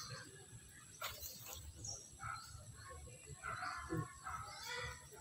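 Birds chirping and calling in the surrounding trees, a scatter of short high chirps and broken calls, with a short noise about a second in.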